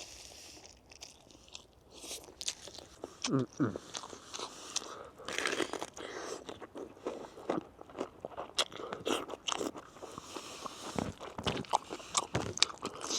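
Close-up crunching and chewing of crisp food, a rapid irregular series of sharp crunches as it is bitten and chewed.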